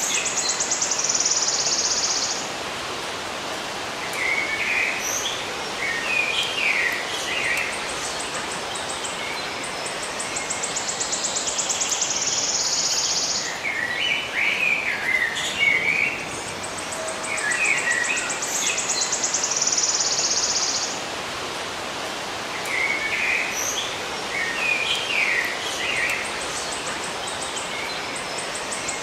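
Birds chirping in short clusters, alternating with a high, rapid buzzing trill, over a steady hiss. The same sequence repeats about every nine seconds, like a looped recording.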